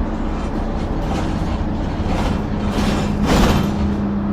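Bus running, heard from on board, with a steady low engine drone that steps up slightly in pitch about two seconds in. About three seconds in comes a short, loud hiss of compressed air from the bus's air system.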